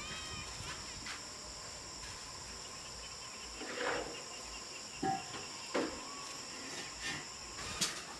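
Insects, cricket-like, chirring steadily at a high pitch, with a few short knocks and a brief louder sound about halfway through.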